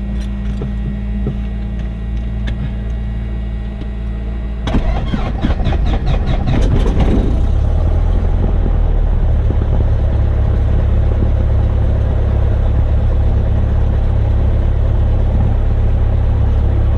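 1972 Cessna 172's four-cylinder Lycoming engine being started: after a few seconds of steady hum, it cranks and fires about five seconds in, with rapid uneven pulsing. It then settles into a steady low idle.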